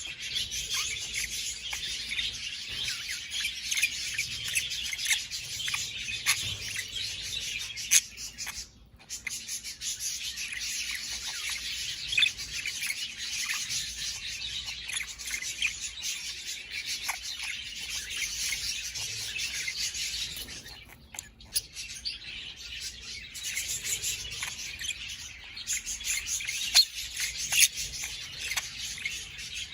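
Budgerigars chattering and warbling, a dense, unbroken stream of chirps with short pauses about nine seconds in and again around twenty-one seconds.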